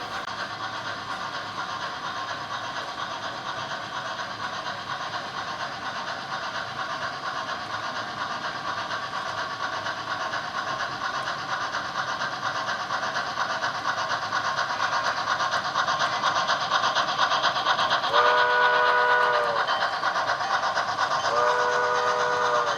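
An HO scale model steam locomotive running with onboard sound: a steady rushing running sound that slowly grows louder, then two chime steam-whistle blasts of about a second and a half each near the end.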